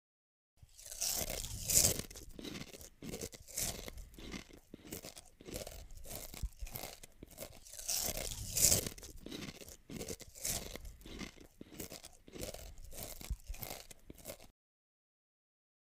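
Crunchy food being bitten and chewed: a run of irregular, crisp crunches with two louder bites, one about two seconds in and one about halfway through, stopping shortly before the end.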